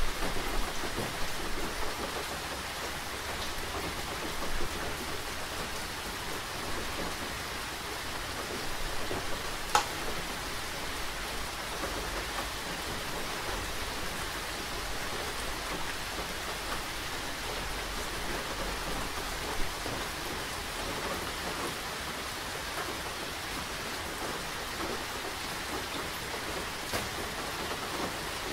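Steady rain falling, with a dense patter of drops ticking on surfaces and a faint low rumble underneath. One louder, sharper click comes about ten seconds in.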